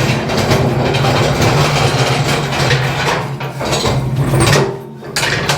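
Steel motorcycle lift table being rolled across the garage floor on its small castor wheels: a steady rumble with rattling from the frame, easing off near the end.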